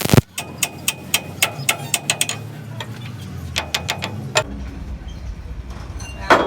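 Light metallic taps and clinks of hand tools on steel, rapid at first and then more spaced, a few ringing briefly, followed near the end by one louder knock.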